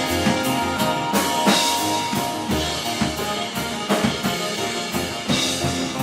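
A band playing live: a drum kit keeps a steady beat with kick and snare hits and cymbal crashes under sustained distorted guitar and bass.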